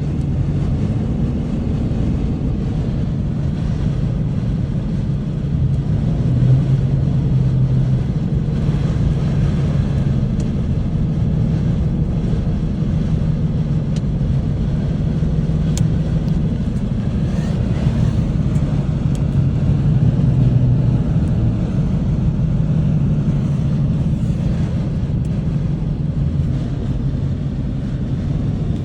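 Steady low drone of a motor vehicle on the move, its engine and road hum holding about level throughout.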